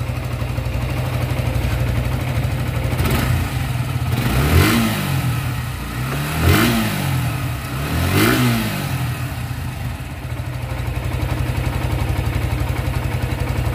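Suzuki Gixxer FI's single-cylinder engine idling steadily, blipped three times in quick rises and falls of revs in the middle, then settling back to idle. The engine is freshly rebuilt with new piston rings and its timing reset after it had started making a bad noise.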